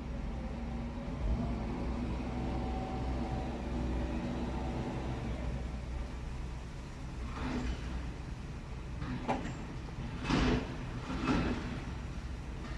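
A vehicle engine running steadily, with four short crashing noises in the second half; the loudest comes about ten seconds in.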